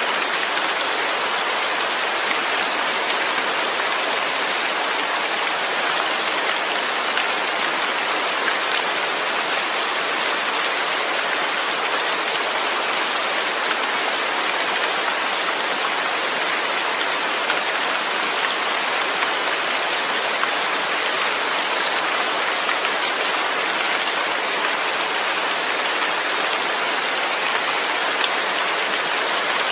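Steady rain, an even hiss with faint drop ticks scattered through it.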